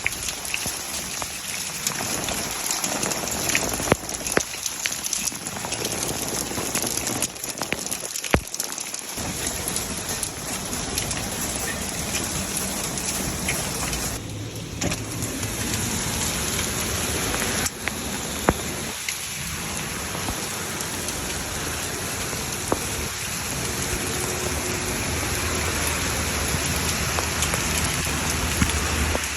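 Hail falling hard: a dense, steady patter of hailstones, with many sharp single cracks of stones striking hard surfaces scattered throughout.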